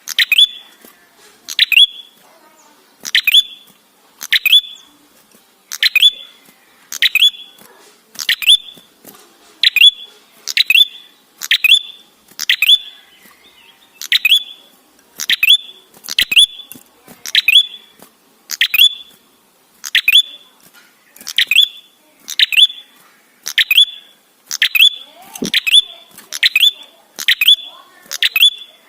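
Prenjak songbird calling, a sharp high note repeated over and over about every three-quarters of a second, often in close pairs, without a pause.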